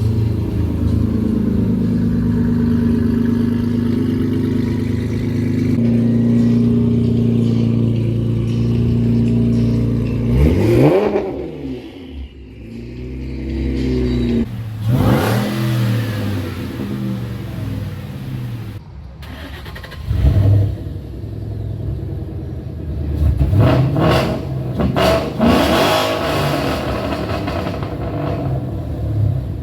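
Car engines at a car meet: a steady engine rumble for about ten seconds, then a series of hard revs, each with a climbing pitch, several of them in the second half.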